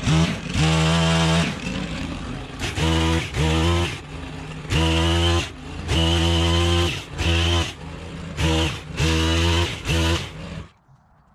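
Stihl KM 130R kombi engine driving an HT-KM pole pruner, its throttle opened and released in about seven bursts of roughly a second each, with lower running between them. The engine stops near the end.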